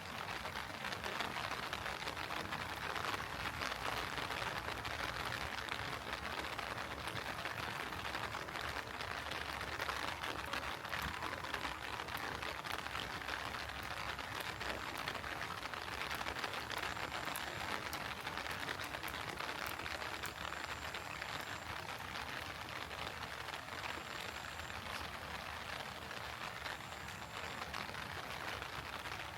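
Steady heavy rain falling, a dense patter of drops. A faint, short, high chirp repeats every few seconds in the second half.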